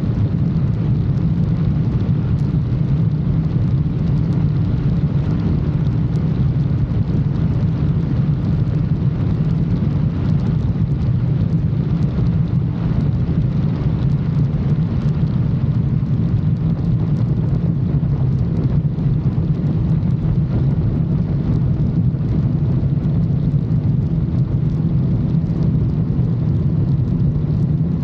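Motorcycle engine running at a steady cruising speed, with wind and road noise mixed in; the pitch holds even throughout, with no revving or gear changes.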